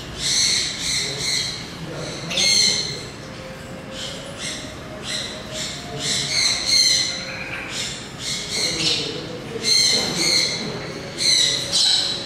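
High-pitched squawking bird calls from unseen birds, repeated in short clusters every second or two.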